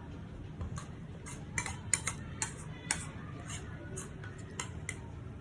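A spoon clinking and scraping against a bowl about a dozen times in an uneven rhythm, as porridge is scooped and eaten.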